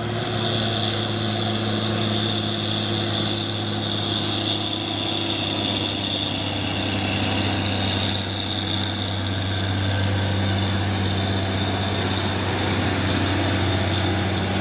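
Heavy diesel truck engine running steadily under load, with a steady high whine above it.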